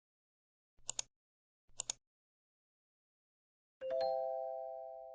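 Three short, sharp double clicks about a second apart, then, nearly four seconds in, a single bell-like chime that rings on and slowly fades.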